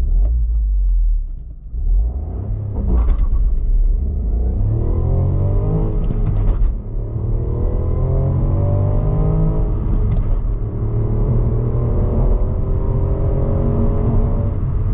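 Ford Puma ST-Line's 155 hp 1.0-litre EcoBoost three-cylinder engine accelerating flat out in a 0–100 km/h run. After a low rumble for the first few seconds, its note climbs steadily in pitch, drops at gear changes about six and a half and ten and a half seconds in, and climbs again after each one.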